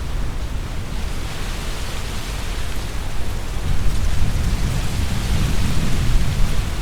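Strong wind gusting through trees: tree leaves rustling with a low rumble of wind beneath, a gust building about halfway through.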